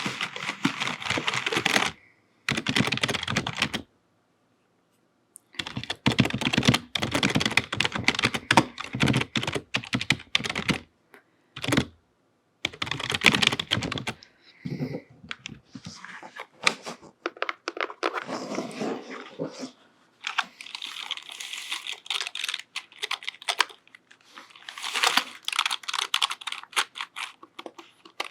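Rapid typing and tapping on a computer keyboard with long fingernails, in bursts of quick key clicks broken by short pauses.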